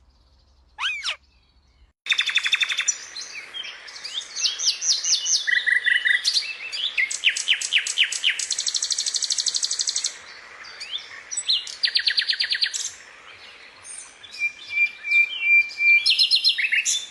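Several small birds chirping and calling, with rapid high trills among short chirps over a faint steady hiss. It starts almost quiet with a single short call about a second in, then turns into a busy chorus from about two seconds in.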